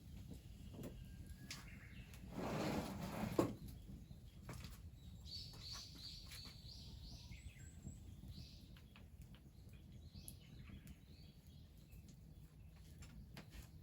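Small birds chirping in short high notes, mostly in the middle of the stretch. About two seconds in, a louder noisy rustle lasting about a second ends in a sharp click, and light clicks are scattered throughout.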